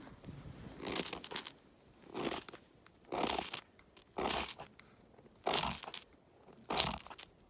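Crunching footsteps at a slow walk, about one step a second, each step a short crunch.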